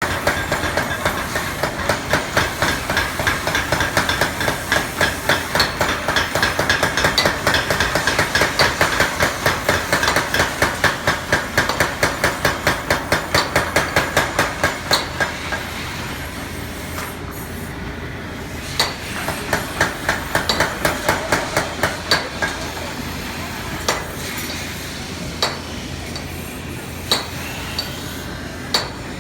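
Blacksmith's hammer striking steel on an anvil, metallic ringing with each blow: a fast, even run of about three to four strikes a second for roughly the first half, then slower single strikes about every second and a half.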